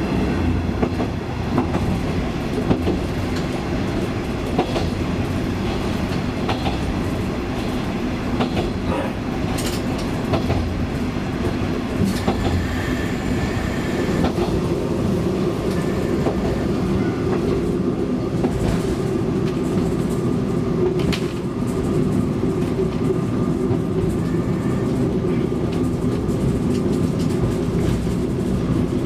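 KiHa 20-series diesel railcar running along the line: a steady diesel engine hum with wheels clicking over the rail joints, heard from inside the car.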